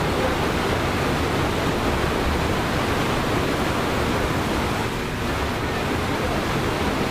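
Waterfall pouring, a steady, unbroken rush of falling water close by.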